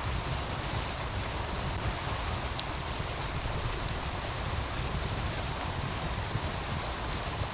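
Wood fire crackling, with a few sharp pops, over the steady rush of a meltwater stream and a low rumble.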